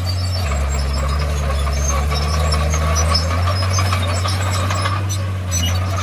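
Komatsu D51PX bulldozer's diesel engine running under load, its note dropping lower about half a second in and picking back up after about three seconds, with scattered squeaks and clicks over it.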